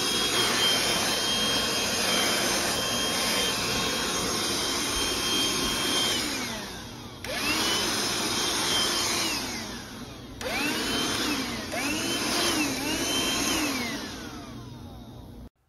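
BLACK+DECKER Dustbuster cordless handheld vacuum running with a steady high motor whine. It is switched off and back on twice: each time the whine falls as the motor spins down, then jumps back up. In the last run the pitch dips and recovers three times before the motor winds down and the sound cuts off.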